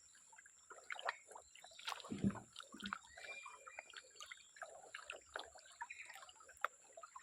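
Water sloshing and trickling in small splashes, with scattered light knocks and scrapes and a duller splash about two seconds in.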